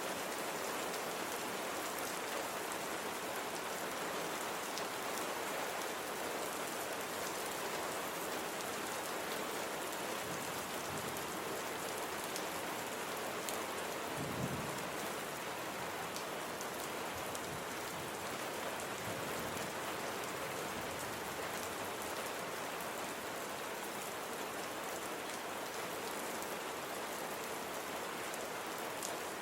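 Steady rain falling, an even hiss with scattered drops, and a brief low rumble about halfway through.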